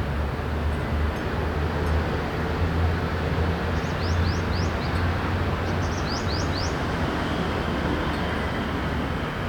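Steady low hum of city traffic. About 4 seconds in and again about 6 seconds in, a bird gives a quick run of four or five short, high, rising chirps.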